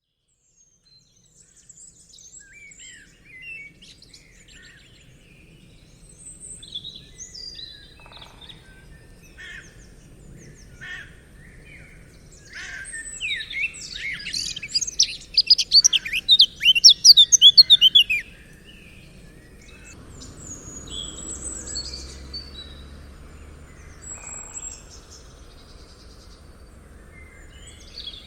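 Wild songbirds calling and singing in a forest, with scattered chirps and whistles. About twelve seconds in, one loud song of rapid, quickly falling notes runs for about five seconds before the quieter calls resume over a faint low background hum.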